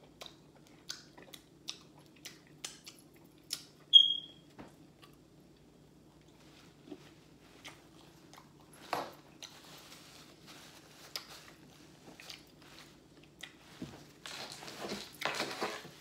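Close-up chewing and lip smacking of crunchy fried chicken wings, with scattered short clicks and crunches and a brief high squeak about four seconds in. Paper napkin rustling comes in patches, loudest near the end.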